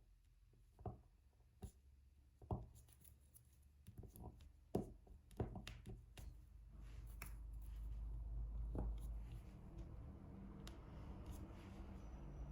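Diamond painting: irregular soft taps and clicks of the drill pen picking up drills and pressing them onto the canvas. From about six seconds in comes a steadier, low rustling handling sound.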